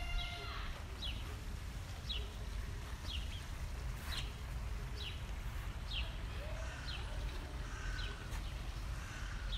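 A small bird calls one short note that slides downward, repeated about once a second, over a steady low rumble.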